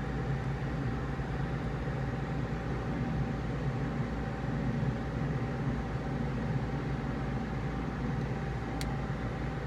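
Steady hum of a machine running, with one small click about nine seconds in.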